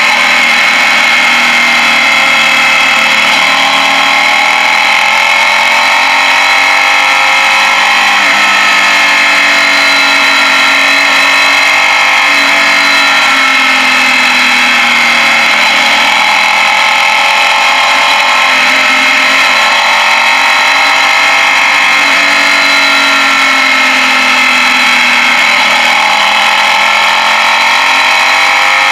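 Suzuki Gladius 645 cc V-twin engine running under way, heard from on board. Its pitch rises and falls every few seconds with throttle and gear changes through the bends.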